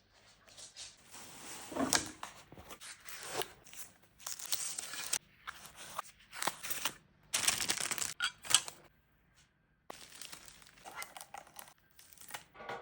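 Packaging being crinkled and torn by hand in irregular rustling bursts, with short pauses between handlings.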